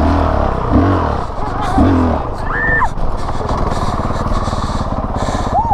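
Dirt bike engine running, its revs rising and falling over the first couple of seconds, then settling into a steady, evenly pulsing low-rev run.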